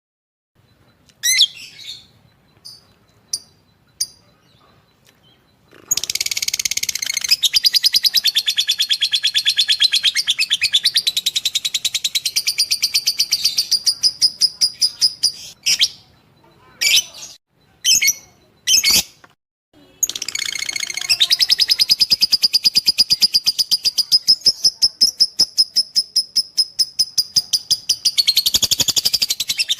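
Lovebird singing in long runs of rapid, shrill chirps. A few single sharp calls come first, and the chattering run starts about six seconds in. Midway it breaks into a handful of separate calls, then runs on again.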